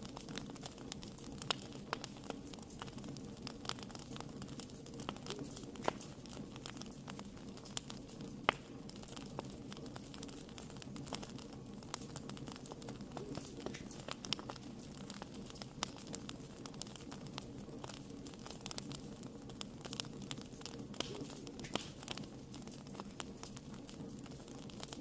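Wood fire in a fireplace crackling: irregular sharp pops and ticks over a steady low rush of flame, with one louder pop about eight seconds in.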